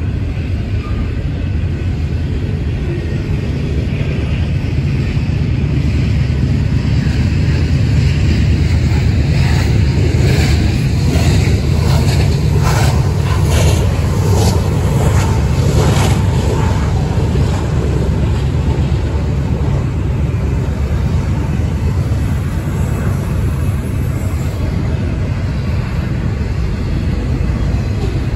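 BNSF intermodal freight train's loaded well cars rolling steadily past close by, a continuous low rumble. A run of sharp clacks comes about a third of the way through and dies away about halfway.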